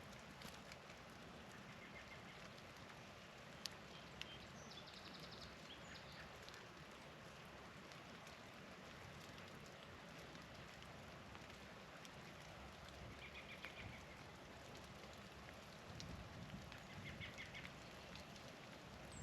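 Faint, short twittering chirps of small songbirds, a few at a time, over a steady hiss with a couple of sharp ticks a few seconds in.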